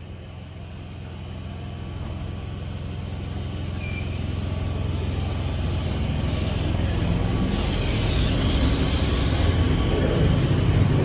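Sydney electric passenger train approaching the platform, a low rumble with wheel-on-rail noise growing steadily louder, with a rising hiss in the second half.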